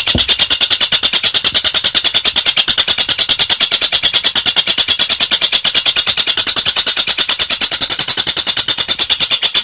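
Collared kingfisher (tengkek buto) giving its rapid chattering crecetan call: an unbroken run of sharp, high notes at about eight a second, very even throughout.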